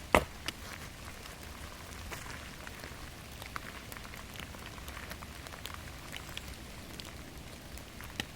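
Steady rain falling in a forest, with scattered drops ticking. There is a sharp knock right at the start and another near the end.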